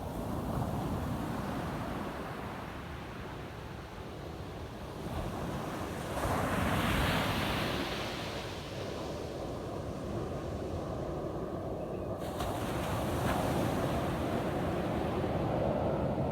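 Ocean waves breaking and washing up a sandy beach, with one louder wave crashing about six seconds in, and wind rumbling on the microphone.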